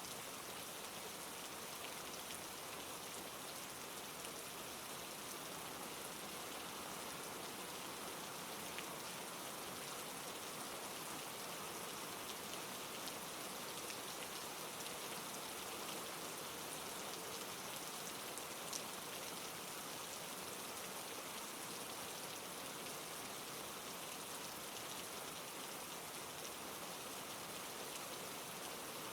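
Steady, soft rain falling, with a light patter of drops on a surface.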